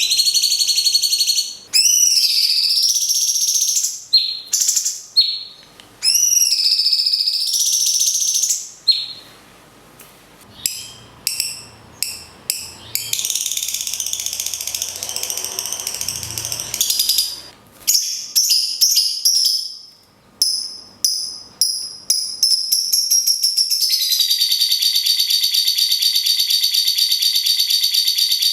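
Recorded songs of a cucak cungkok and a lovebird trading off: high whistled notes that glide up and down, then quick broken chips and trills, ending in a long, steady, fast rattling trill.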